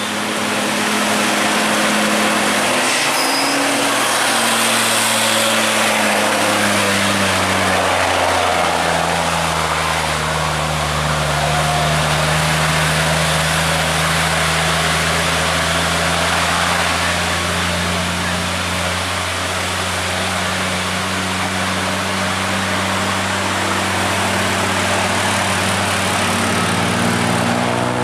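Heavy diesel truck engine running hard on a steep grade. Its note drops about eight seconds in, then holds steady.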